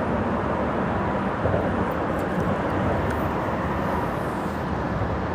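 Steady rush of freeway traffic crossing the bridge overhead, mixed with the flow of a small stream.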